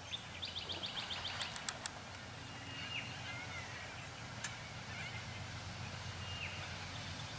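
Wild birds calling: a quick run of about eight repeated high notes near the start, a few sharp clicks just after, and a couple of down-slurred whistles later on. A faint low steady hum sits underneath throughout.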